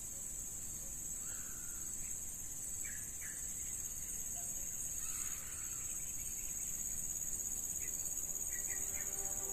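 Steady high-pitched insect drone with scattered short bird chirps. Background music fades in near the end.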